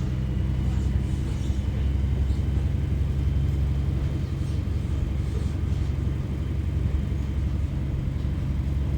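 Ex-Northern Pacer diesel railcar 144007 running, its diesel engine giving a steady low drone with a rumble.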